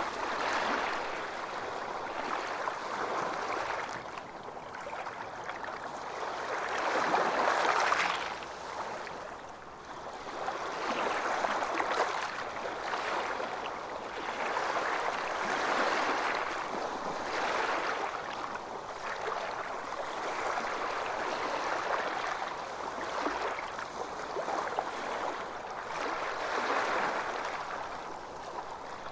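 Calm waves lapping, an unbroken wash of water that swells and ebbs irregularly every few seconds.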